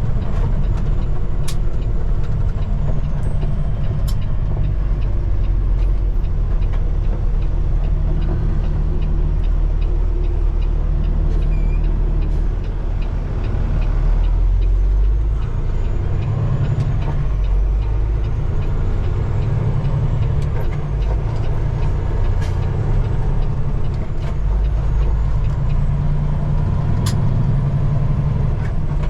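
Peterbilt 389 semi truck's diesel engine running at low speed, a steady low rumble that dips slightly about halfway through, with a few faint clicks.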